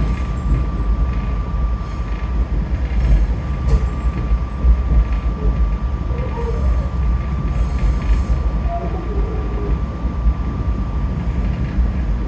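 SEPTA commuter train running, heard from inside the car: a steady low rumble of wheels on rail with a thin constant whine over it.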